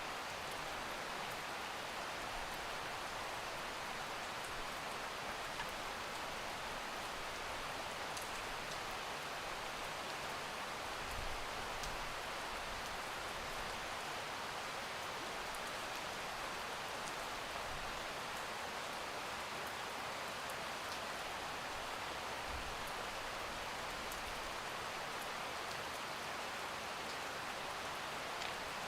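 Steady rain falling: an even hiss with scattered faint drop ticks, and a few brief low thumps along the way.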